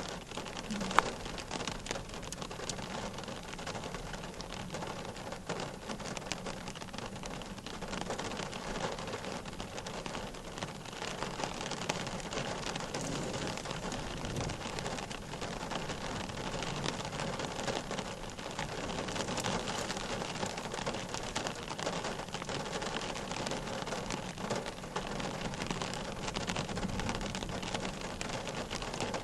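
Steady rain falling, with many small drop ticks throughout and one sharp click about a second in.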